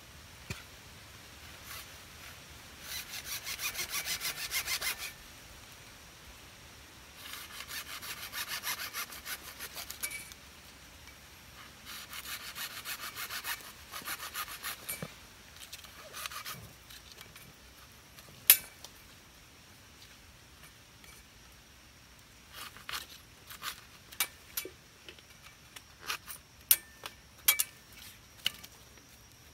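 Hand sawing in three bouts of quick back-and-forth strokes, each lasting two to three seconds, followed near the end by a run of scattered sharp clicks and knocks.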